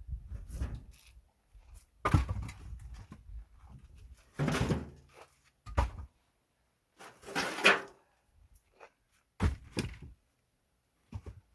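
Pine firewood logs being handled and set down, a series of irregular wooden thunks and scraping knocks, about half a dozen over the stretch.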